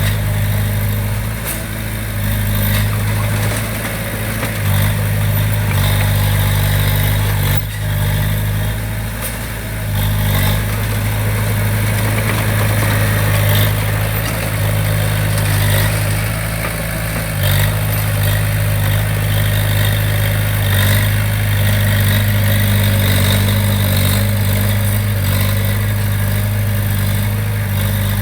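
Diesel engine of a heavy construction machine running steadily with a deep, even hum, its level dipping briefly a few times.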